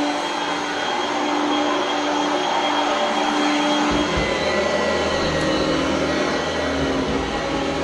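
Oreck Elevate Conquer upright vacuum cleaner running steadily, its motor and airflow giving a continuous whirring hiss with a high whine. About four seconds in, a low rumble comes in under it.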